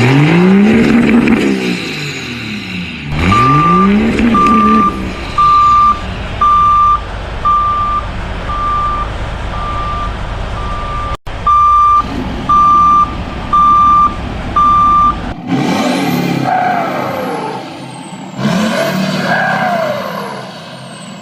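Vehicle reversing alarm beeping steadily, about one beep a second for some twelve seconds, over a running engine. Before it, the engine twice revs up and back down; after the beeping stops, rising and falling whistle-like glides follow.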